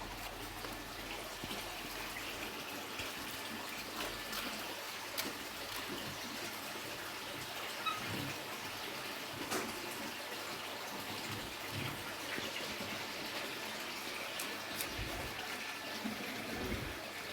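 Steady rushing of running water, with a few faint clicks and knocks.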